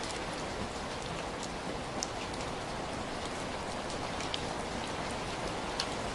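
Steady heavy rain falling, a dense even hiss with scattered sharper drop hits standing out now and then.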